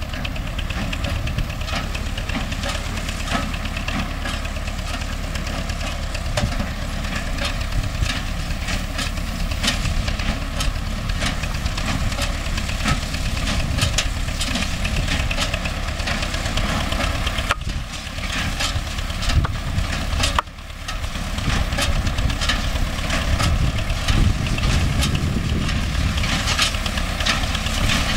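MTZ-5 tractor's diesel engine running steadily while driving a hay baler, with repeated sharp mechanical knocks and clacks over the engine drone.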